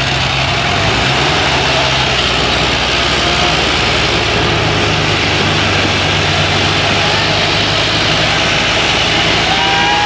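Tractor diesel engines running steadily under heavy load as two tractors pull against each other in a tug of war, their pitch shifting slightly about a second in.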